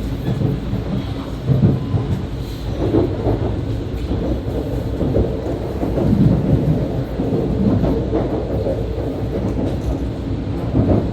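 E2 Series Shinkansen running sound heard from the car's vestibule deck: a steady deep rumble of wheels and body with irregular heavier thumps, as the train runs on toward the terminal.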